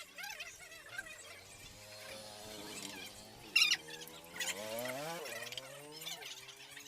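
A whine with several pitches that rise and fall, likely from a tool or motor during engine teardown work, with a sharp click about three and a half seconds in.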